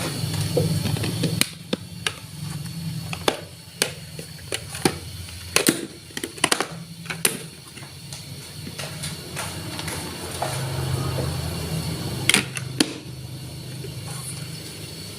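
Marbles rolling down a wooden marble run, with irregular sharp clacks as they strike the track pieces and one another, over a steady low rolling rumble.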